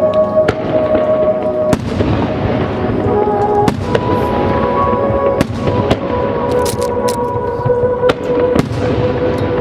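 Fireworks display: shells bursting with repeated sharp bangs and crackling, over music played along with the show.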